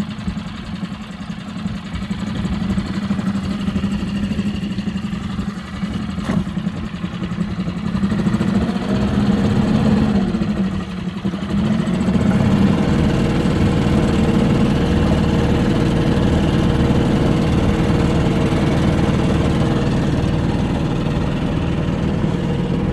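Yacht's outboard motor running steadily under way, getting louder about eight seconds in and again around twelve seconds in.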